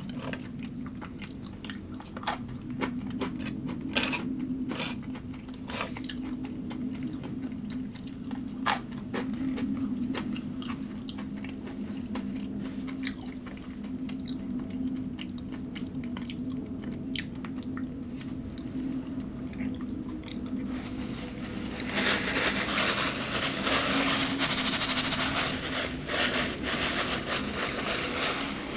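A person chewing crunchy food at close range, with sharp crunches over the first ten seconds or so, then softer chewing. About three-quarters of the way through, a steady hiss starts and becomes the loudest sound.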